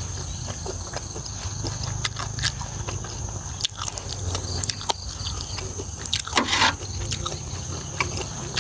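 Close-up chewing and smacking of a mouthful of pork offal in spiced raw pork blood, many small wet clicks, with one louder wet noisy burst about six and a half seconds in.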